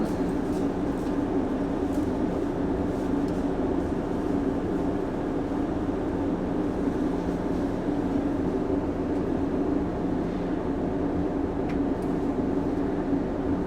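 Shinano Railway 115 series electric train running, heard from inside the car: a steady traction-motor hum over the rumble of wheels on rail, with a few faint clicks.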